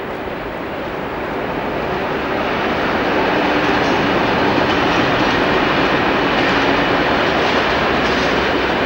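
A train running close by, with a steady rumble of wheels on rail and some rhythmic clatter over the rail joints. It grows louder over the first three seconds, then holds steady.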